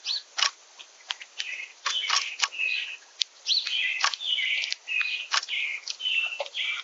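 Small songbirds chirping in a quick run of short notes, mixed with many sharp clicks and taps.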